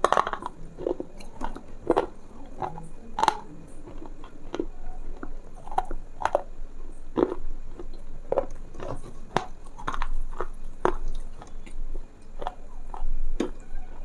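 Close-up, irregular crunching and clicking sounds, a few a second, of the kind made for ASMR.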